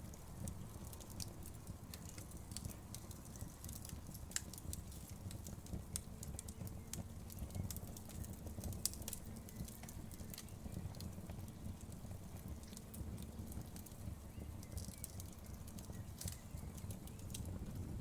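Wood fire crackling: irregular sharp pops and snaps scattered over a low, steady rumble.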